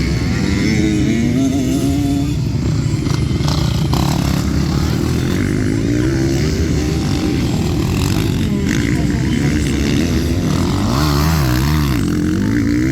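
Motocross bike engines revving up and down as the bikes race, the pitch rising and falling with each gear change and throttle, with several engines overlapping near the end.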